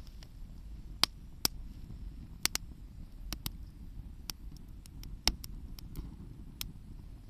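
Wood crackling and popping in a campfire: sharp, irregular pops over a low steady rumble.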